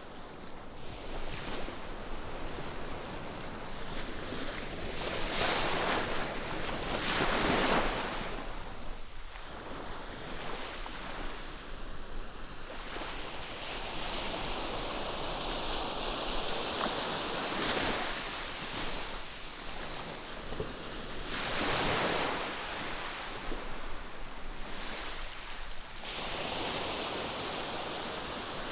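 Ocean surf breaking on the shore, heard from a distance, with waves swelling and falling away every few seconds. The loudest surge comes about seven seconds in.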